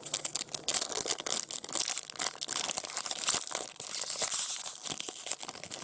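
A trading-card pack's foil wrapper being torn open and crinkled by hand: dense, irregular crackling with many sharp peaks.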